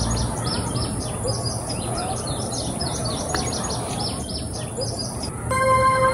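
Birds chirping in rapid, repeated high notes over a steady high hiss. Music with sustained keyboard-like tones comes in about five and a half seconds in.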